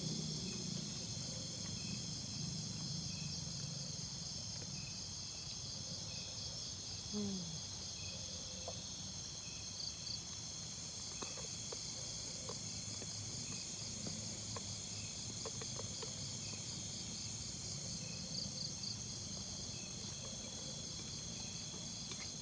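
Forest insect chorus at night: a steady high-pitched drone of insects with a chirp repeating two to three times a second over it. A few faint short clicks fall in the middle.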